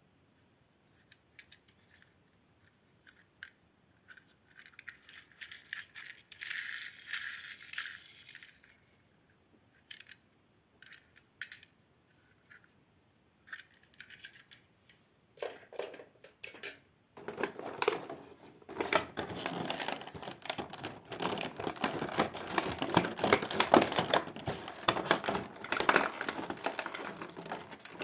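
Small hard plastic toy pieces clicking and rattling as they are handled. Scattered clicks and a short rustle come first; in the last ten seconds the clicking turns dense and rapid.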